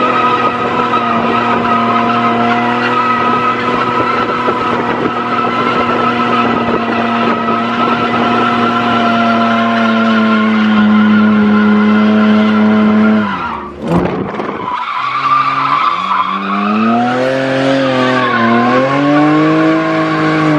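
A car drifting: its engine held at steady high revs under tyre squeal, breaking off suddenly about two-thirds of the way in, then revs rising and falling as the slide goes on.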